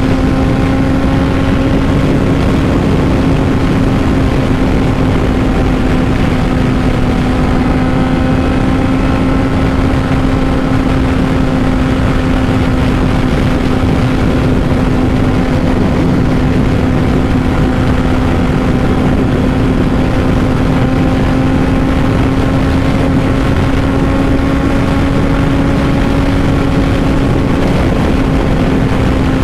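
2005 Honda CBR600RR's inline-four with a Two Brothers full exhaust running at a steady speed, holding one pitch, under a loud rush of wind noise.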